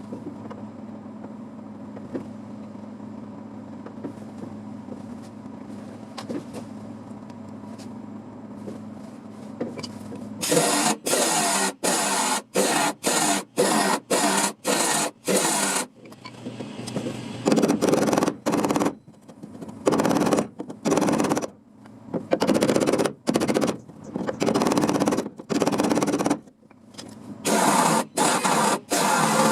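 A steady low hum, then from about a third of the way in, many short bursts of crackling from welding on a car body panel. They start and stop sharply: quick stitch welds at first, then longer beads with short pauses between.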